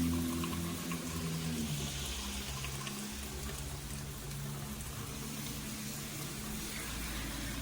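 Steady rain falling: an even hiss with scattered faint drop ticks. A low steady hum sits underneath and fades down over the first second or two.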